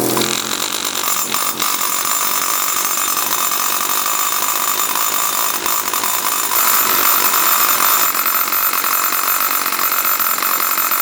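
High-pitched power tool running steadily at work on metal engine parts, its note stepping up and getting louder about six and a half seconds in.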